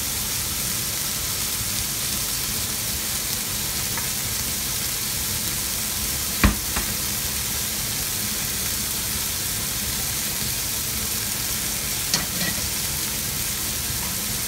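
Steady frying sizzle from slices of flank steak in a hot pan, with one sharp knock about six and a half seconds in and a lighter one near the end.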